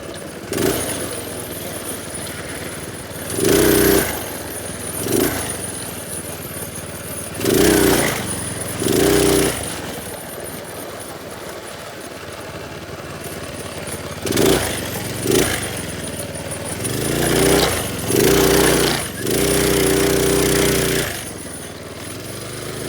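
Minibike's small engine running, revved up and back down in about nine short bursts, with longer revs near the end.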